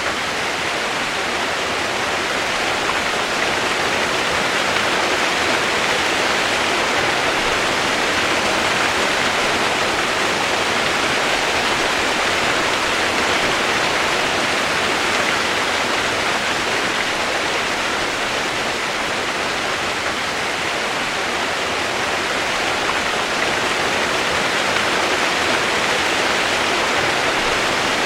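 Steady rain used as white noise: a continuous, even hiss with no single drops standing out and no change in level.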